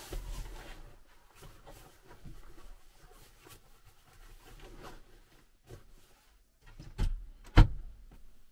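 Soft rustling and light clicks of things being handled in a small room, then two sharp knocks about half a second apart near the end, the second louder.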